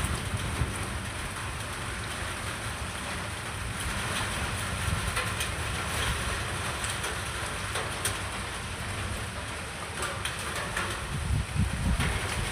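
Steady rain falling, with a low rumble of wind on the microphone that swells near the end.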